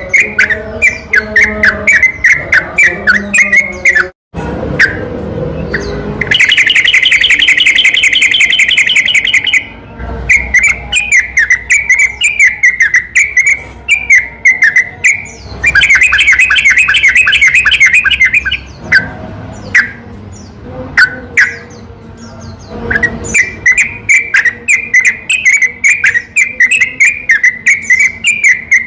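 Yellow-vented bulbul (trucukan) song played as a lure recording: quick, chirpy, bubbling phrases repeated over and over. Twice, a long fast rattling trill (the 'ropel') lasts a few seconds. The sound cuts out abruptly for a moment about four seconds in, where the recording is edited.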